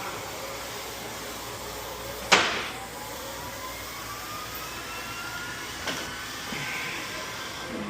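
A steady background hum with one sharp, loud bang about two seconds in and a lighter knock near six seconds.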